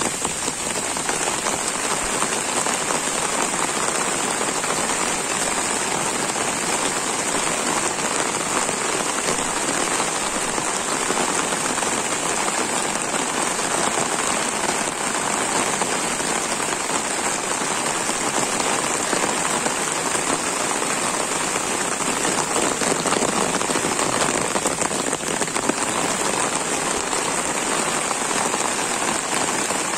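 Torrential rain falling steadily on grass and foliage, a dense, even hiss of drops that does not let up.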